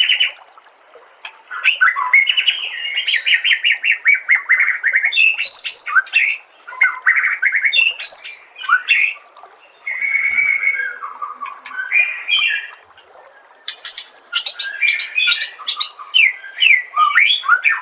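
White-rumped shama (murai batu) singing: rapid, varied phrases of whistles, trills and chattering notes, in bursts with short pauses between them.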